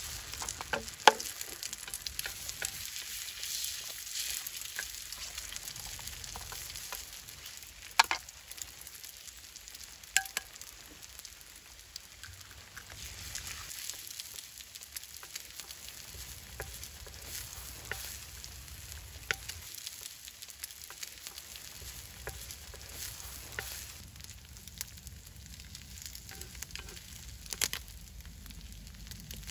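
Eggs and diced potatoes sizzling on a hot stone slab over campfire coals, a steady high hiss with sharp clicks now and then. Near the end a wooden spatula scrapes and stirs the food on the stone.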